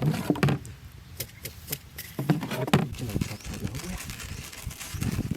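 Irregular clicks, knocks and rustling, as of objects being handled, loudest in the first second and again near the three-second mark.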